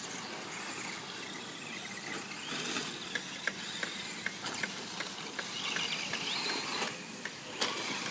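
An electric radio-controlled truck running on a dirt track over a steady hiss, with a string of sharp clicks and ticks in the middle and brief gliding whines near the end.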